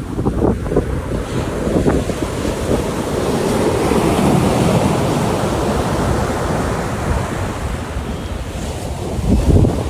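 Sea waves breaking and washing up a beach, swelling to a peak a few seconds in and then easing. Wind rumbles on the microphone, with a strong gust near the end.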